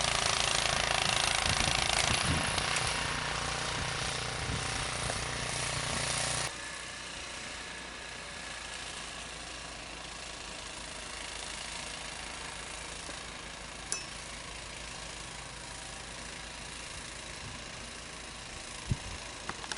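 Small gasoline engine running hard with a steady rough beat, dropping off abruptly about six seconds in to a quieter steady running noise, with a single sharp click later on.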